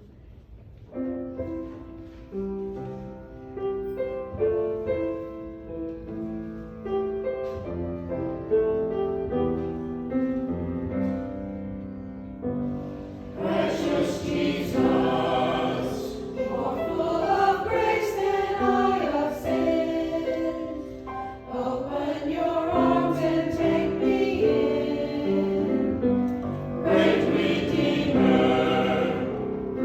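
Church music: an instrumental introduction of held, stepping chords begins about a second in, and a choir joins in singing about halfway through.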